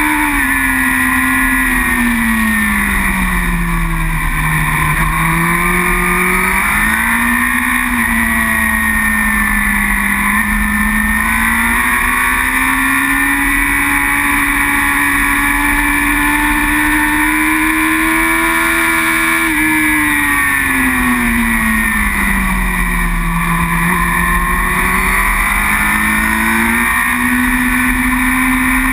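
Superbike's engine at racing speed, heard from onboard. The engine note drops twice as the bike slows, then climbs again as it accelerates, with a few short steps in pitch.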